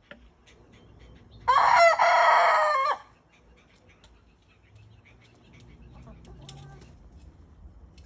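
Rooster crowing once, a loud call lasting about a second and a half that stops sharply. A few faint clicks and a much fainter short call follow later.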